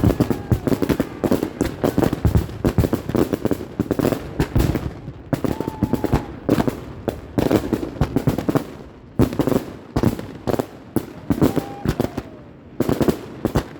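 Fireworks going off in rapid succession: a dense string of sharp pops and bangs with a few brief whistles mixed in, easing off for a moment about two-thirds of the way through and again near the end.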